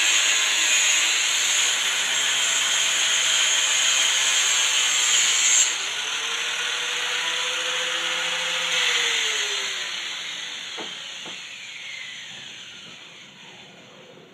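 Drill Master angle grinder grinding, the harsh grinding noise cutting off suddenly about six seconds in. The motor keeps spinning freely for a few seconds, then is switched off and winds down with a falling whine.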